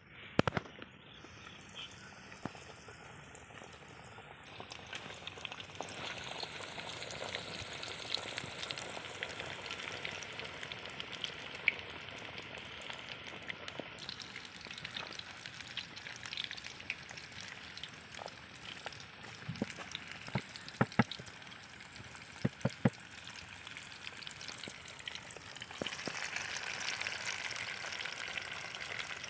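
Breaded chicken pieces deep-frying in hot oil: a steady sizzle that grows louder about six seconds in. A few sharp knocks, likely from a utensil against the pan, come about two-thirds of the way through.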